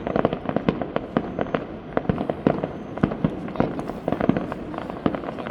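Fireworks display: a rapid, irregular run of sharp bangs and crackling pops, several a second.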